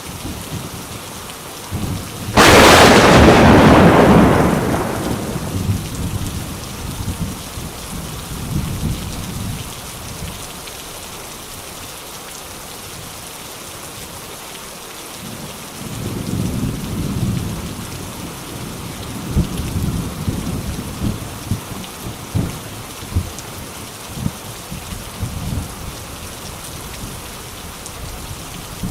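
A thunderclap cracks suddenly about two seconds in and rolls away over a few seconds, over steady rain. Lower rumbles of thunder come and go in the second half.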